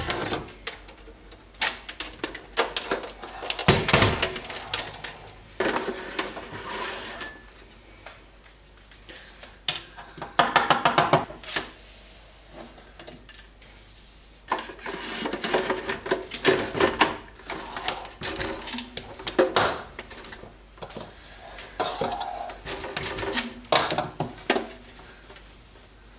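Hard household items, bottles and dishes, clinking and clattering as they are handled, in irregular bursts with short pauses between them.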